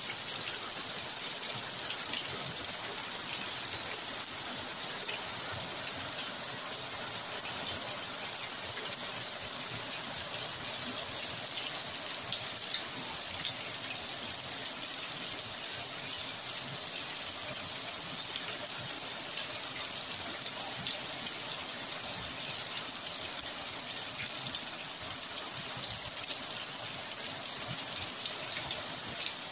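Heavy rain falling steadily, splashing on paving and leaves.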